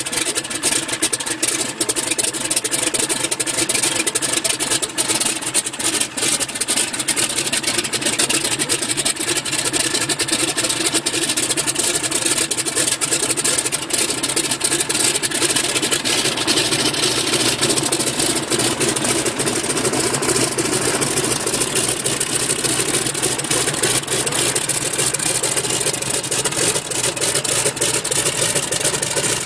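Boeing Stearman biplane's radial engine running steadily, with no clear rise or fall in speed.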